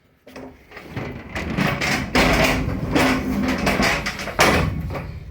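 Pallet jack rattling and clanking as it is moved back onto the truck, with loud metal knocks about two seconds in and near the end.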